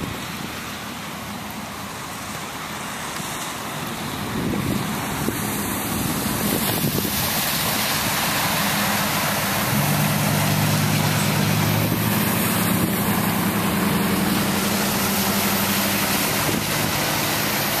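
A motor vehicle's engine running as it drives slowly through deep floodwater, over a steady wash of rushing water noise. The engine grows louder from about seven seconds in and then holds steady.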